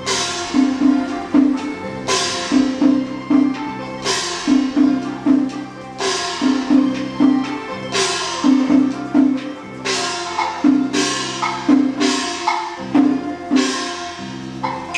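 Taiwanese opera (gezaixi) instrumental accompaniment: a repeating low melodic figure over a steady beat of wood-block clacks, with a sharp cymbal-like strike about every two seconds.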